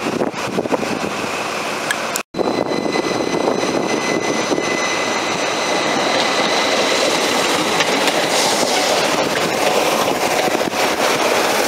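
Train moving past a platform: steady rumble and wheel noise with a faint, steady high whine, broken by a split-second dropout about two seconds in.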